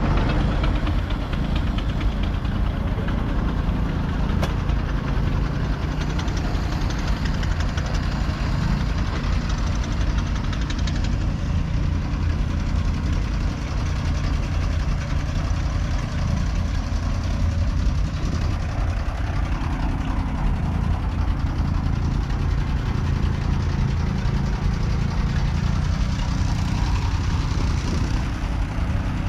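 1926 John Deere Model D's 7.6-litre horizontal two-cylinder engine running steadily at a low, even speed.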